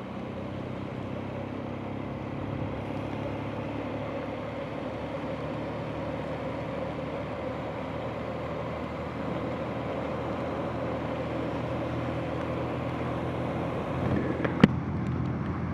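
Motorcycle engine running steadily under a constant rushing noise. A single sharp click about fourteen and a half seconds in.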